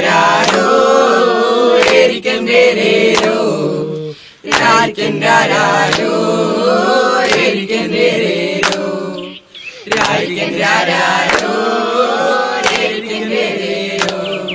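A group of voices singing a song together, with little or no accompaniment, in phrases broken by short pauses about four and nine and a half seconds in.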